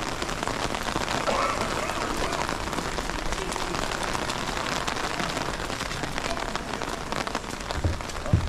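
Steady rain falling, with a dense patter of drops, and a couple of short low bumps near the end.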